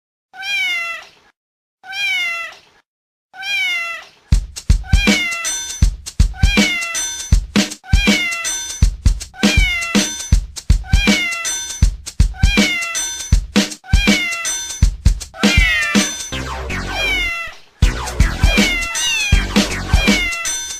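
Three cat meows, each rising then falling in pitch. From about four seconds in, a dance beat kicks in with the same meow repeated in time over it, like a cat-meow remix track.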